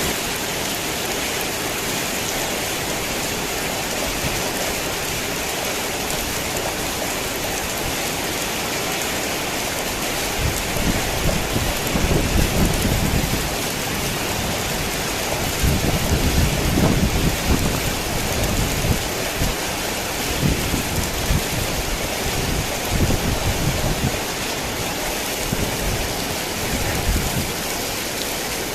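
Heavy rain falling steadily, with thunder rumbling low several times from about a third of the way in until near the end.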